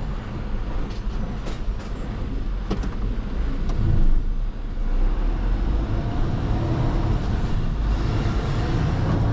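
Mercedes-Benz Actros truck's diesel engine running as the truck pulls out, with a few sharp clicks, a brief swell in engine noise about four seconds in, and the engine pulling harder again near the end.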